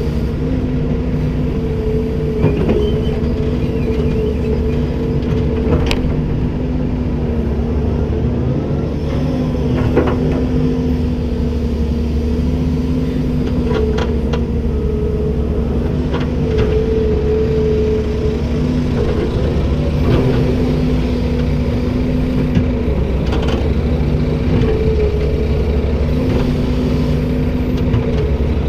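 Komatsu PC290-10 excavator running steadily, a constant engine rumble with a held whine, broken by a few sharp metallic knocks.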